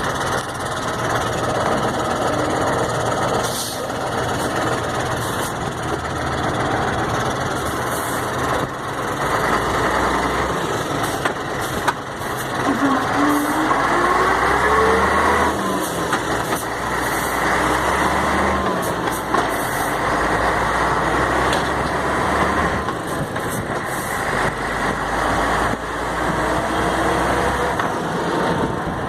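Mercedes-Benz 1634 truck running on a test drive, its diesel engine revving up with a rising pitch about halfway through. The differential has just been rebuilt, and the noise it made when lifting off the accelerator is gone.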